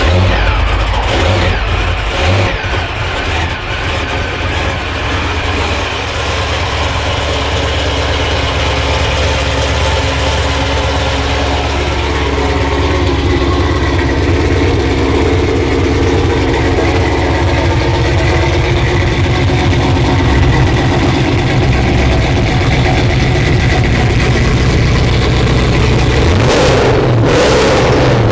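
A car engine running loudly and steadily, with a low pulsing note. Partway through, a higher tone strengthens as the engine is revved up a little, and there is a brief surge just before the end.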